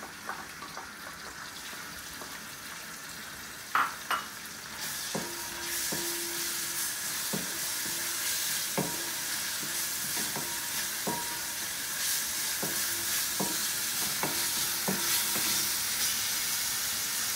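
Curry leaves and crushed ginger-garlic sizzling in hot oil in a pan, with a spoon stirring and knocking against the pan. The sizzle grows louder about five seconds in, after two sharp clacks, and the spoon then strikes the pan about once a second.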